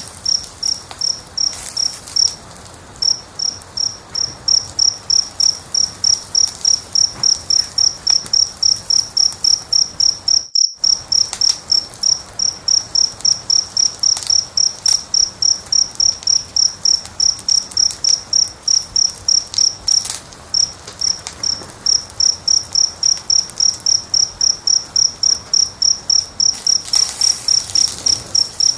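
A cricket chirping in evenly spaced, high-pitched chirps, about three a second, with faint crackles of a wood fire beneath. The chirping pauses briefly twice, and all sound drops out for a split second near the middle.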